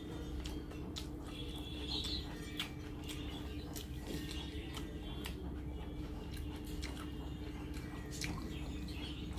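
Close-up eating sounds of rice eaten by hand: wet mouth clicks and chewing, with fingers working rice on a plate, as many short irregular clicks. A steady low hum runs underneath.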